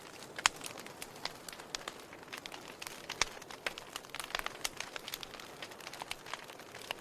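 Wood fire crackling: burning firewood giving irregular sharp pops and snaps over a soft hiss. The loudest pops come about half a second in and just after three seconds.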